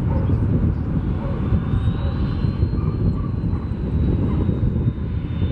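Airbus A330-200's twin Pratt & Whitney PW4000 jet engines running: a steady low rumble with a faint high whine that swells slightly about halfway through.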